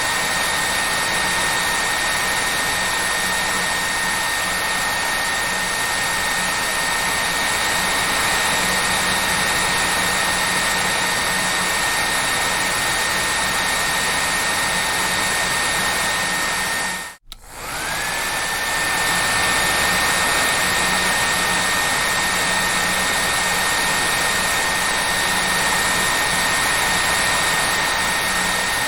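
Hair dryer blowing steadily, with a steady high whine over the rush of air. About 17 seconds in, the sound cuts out for a moment, then comes back with the whine rising to its full pitch as the motor spins up again.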